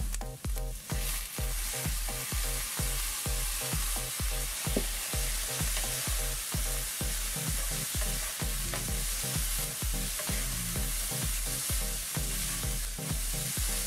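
Diced carrots and peas sizzling in a hot wok, stirred and scraped with a wooden spoon after a dash of soy sauce. Background music with a steady beat of about two a second plays under it.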